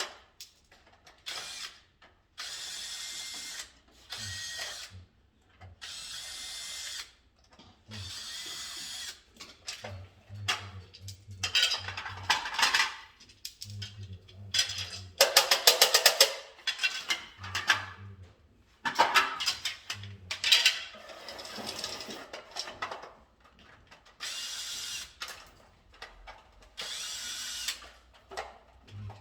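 Cordless electric screwdriver driving screws in a series of short whirring bursts with pauses between them. About halfway through there is a stretch of rapid clicking.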